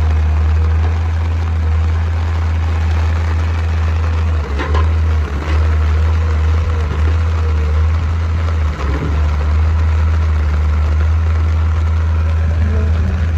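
Heavy diesel engine running steadily at a low, even speed, with a few brief knocks about a third of the way in and again past the middle.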